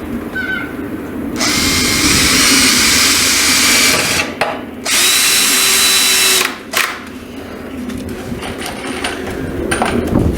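Power drill running in two bursts of about two and a half and two seconds, with a short pause between.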